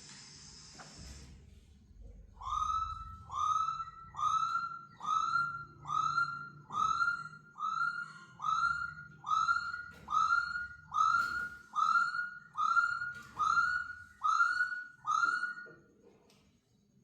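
A laughingthrush repeating one short rising whistled call about fifteen times, evenly, a little faster than once a second.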